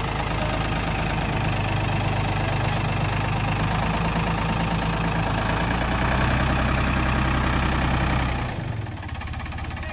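Farm tractor engine running steadily while the tractor is driven, a little louder around six seconds in, then dropping to a quieter, lower note about eight and a half seconds in.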